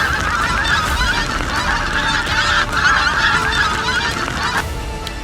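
A flock of pink-footed geese calling, many overlapping honks at once, over low wind rumble; the calling stops about four and a half seconds in.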